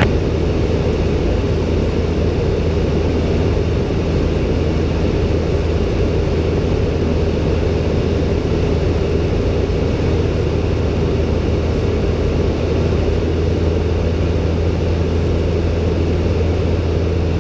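Robin DR400-120's four-cylinder Lycoming engine and propeller droning steadily on final approach, at an even pitch and level with no change in power.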